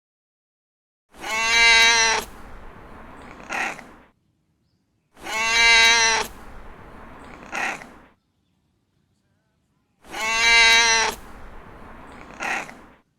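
A cat meowing three times, each a long, loud meow followed a moment later by a short, fainter one, with silent gaps between.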